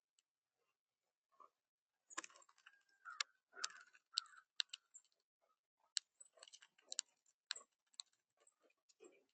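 Irregular sharp clicks and taps of a bird feeding at a feeder, pecking at and handling seed, starting about two seconds in.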